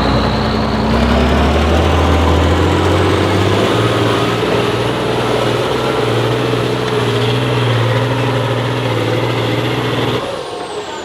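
Heavy off-road trial truck's engine revving up over the first few seconds and held at high revs under load, with a high whine rising with it. It backs off sharply about ten seconds in.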